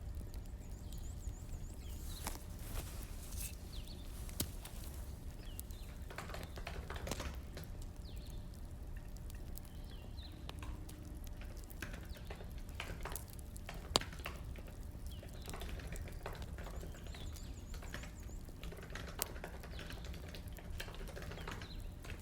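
Crackling wood fire: irregular pops and snaps over a low steady rumble, with one sharper snap about fourteen seconds in.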